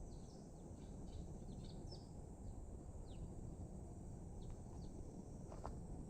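Birds chirping: scattered short, high, falling chirps over a steady low background rumble.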